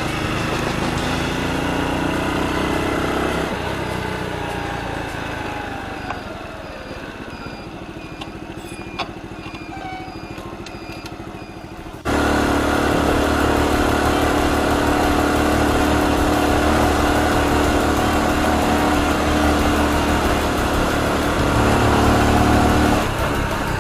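Honda Super Cub's single-cylinder four-stroke engine running on the road. Its note falls as the bike slows over the first few seconds, then about halfway through it jumps suddenly to a louder, steady note.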